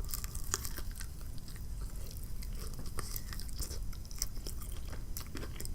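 Close-up chewing of crisp breaded fried chicken, Popeyes ghost pepper wings, with many small crunchy crackles.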